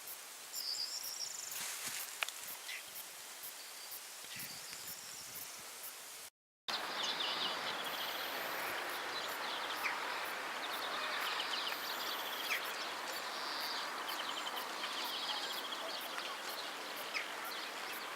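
Outdoor wetland ambience of small birds calling, with short chirps and quick trills over a steady hiss and an even high ticking. The sound cuts out briefly about six seconds in and comes back louder.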